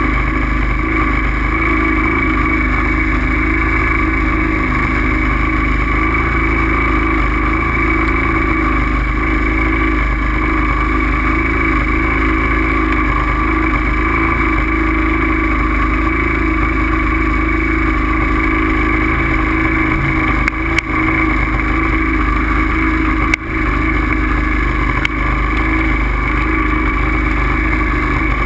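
Steady riding noise from a bike on the move: a constant drone with fixed humming tones over a heavy low rumble, dipping briefly twice in the second half.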